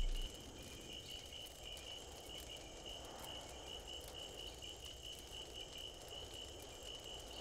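Faint night ambience: a cricket chirping steadily at a high pitch, about three chirps a second, over a low hiss.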